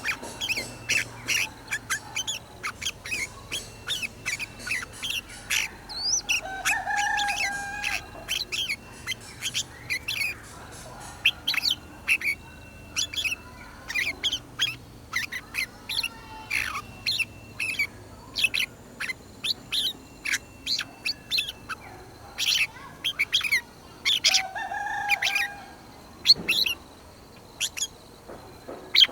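Red-whiskered bulbuls singing: a busy stream of short, sharp, high chirping notes, with a lower, held warbling note twice, about seven seconds in and near the end.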